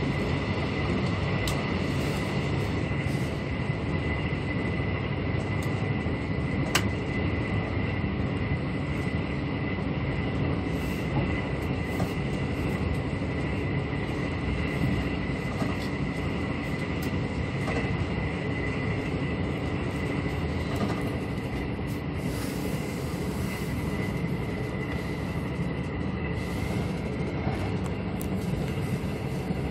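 Steady running noise of a Mugunghwa-ho passenger coach at speed, heard from inside: a continuous rumble of wheels on rail with a thin high-pitched tone held throughout, and one sharp click about seven seconds in.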